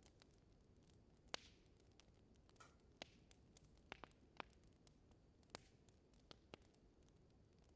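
Wood burning in a fireplace, crackling faintly: sparse, irregular sharp pops over a soft low hiss, the loudest pop a little over a second in.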